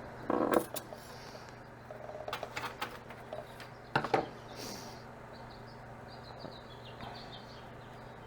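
Scattered sharp clicks, taps and knocks from work on an 18650 battery pack, with one loud snap about four seconds in, over a steady low hum. Faint high chirps come in the second half.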